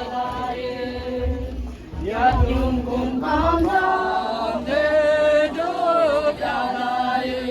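Voices singing together in a slow, chant-like song with long held, wavering notes.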